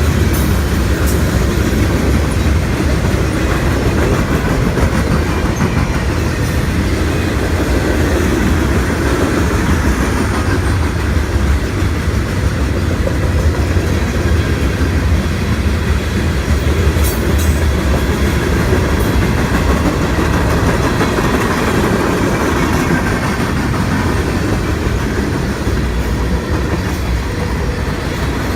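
A train running past, a steady loud rumble of wheels on rails that holds for the whole half-minute.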